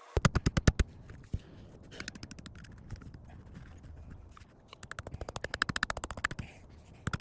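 Hammer blows driving the plastic stakes of a garden border edging into the ground, in quick runs of about ten strikes a second with scattered single knocks between.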